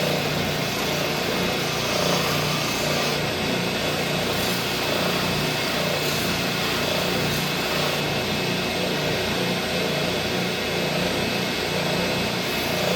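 Oscillating sander running steadily, sanding down the edge of a piece of leather.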